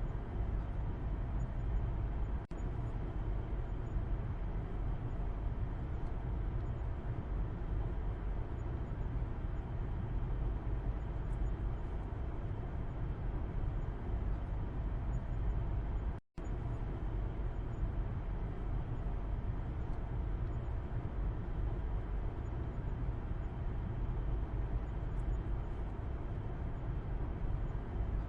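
Car interior heard from the back seat while driving: a steady low rumble of road and engine noise. The sound cuts out very briefly twice, about two and a half seconds in and again around sixteen seconds in.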